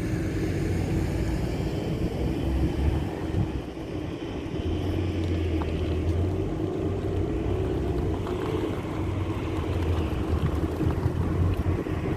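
Motor vehicle engine running with a steady low hum.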